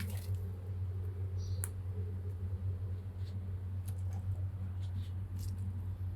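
A steady low hum, with faint, scattered light ticks and rustles from a kitten playing in a Christmas tree.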